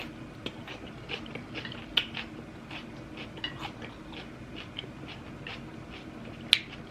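Close-up eating sounds: a person chewing, with small mouth and lip clicks scattered irregularly and a sharper click about 2 seconds in and again near the end, over a low steady hum.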